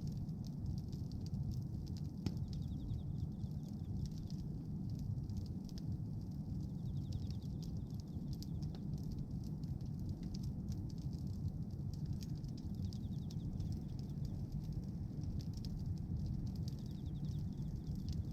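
Bonfire of pruned tree branches burning, with a steady low rumble of flames and frequent small crackles and pops of the wood.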